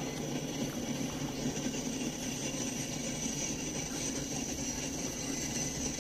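Freight train rolling past: a steady rumble of wheels on rail with a continuous high hiss above it.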